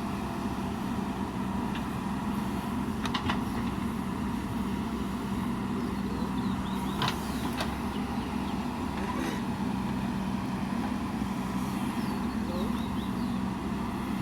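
Heavy diesel engine of earthmoving machinery running steadily, with a few short sharp knocks about three, seven and nine seconds in.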